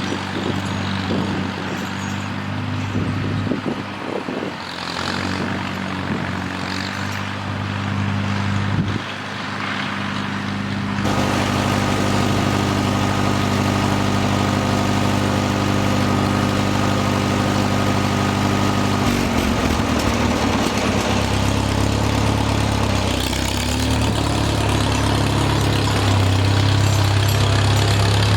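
An engine idling steadily. Its note shifts abruptly a few times: about nine seconds in, again near eleven seconds when a hiss joins it, and around nineteen seconds.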